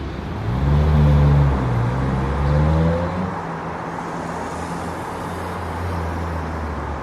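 A motor vehicle engine accelerating, its pitch climbing twice in the first few seconds as if through gear changes, then running steadily.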